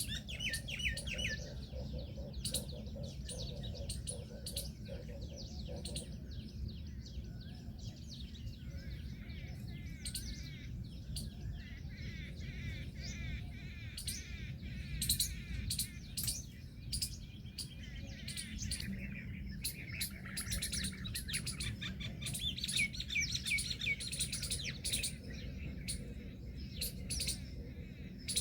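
Birds chirping in rapid series of short, high-pitched notes, over a steady low rumble.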